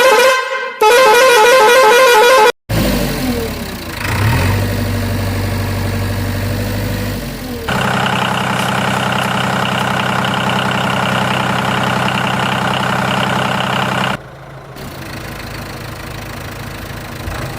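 Two loud vehicle horn blasts with a warbling pitch, then a steady engine-like running sound that grows louder about eight seconds in and drops away about fourteen seconds in.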